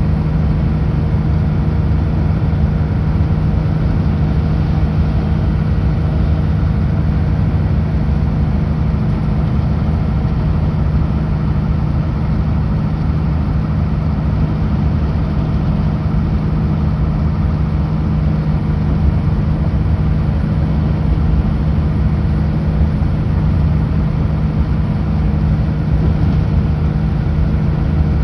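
Kenworth W900L heavy truck's diesel engine droning at a steady pitch while driving, mixed with road rumble.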